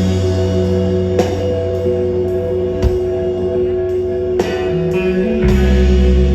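Live rock band playing an instrumental passage: sustained electric guitar chords over heavy bass, with cymbal crashes every second and a half or so.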